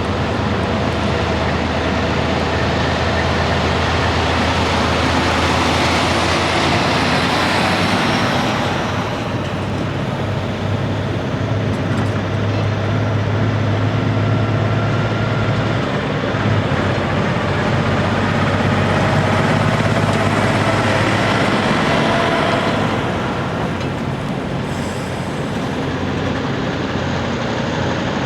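Big-rig diesel trucks driving past: engine tones and tyre noise that swell up and fade away twice.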